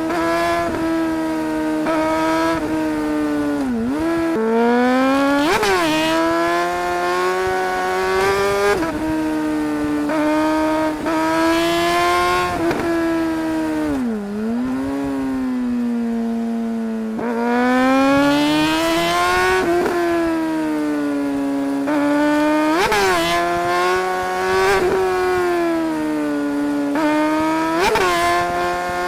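Suzuki GSR 600 motorcycle's inline-four engine running hard under way, its pitch climbing and falling again and again as the throttle is opened and closed and the gears change. Twice the revs drop right down and then climb back up, and several short sharp spikes mark quick shifts or throttle blips.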